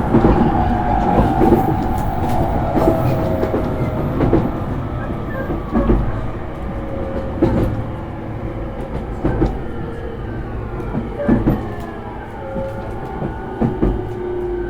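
Traction motors and inverter of a JR East E231-series electric train heard from inside the motor car, their whine falling in pitch as the train slows, most likely braking for a station stop. Rail-joint clacks come at gaps that lengthen as the train slows, over the steady rumble of the wheels.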